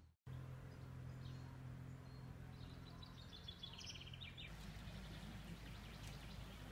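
Faint outdoor ambience: a steady low hum that gives way to a low rumble about four and a half seconds in, with a small bird's quick twittering trill about three seconds in.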